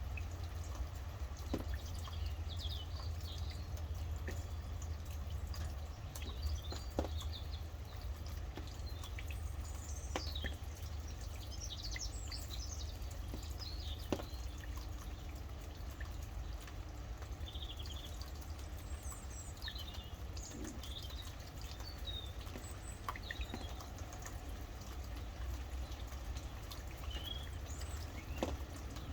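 Rain dripping, with occasional sharper drops striking, while several birds chirp and sing in short scattered phrases throughout. A steady low rumble sits underneath.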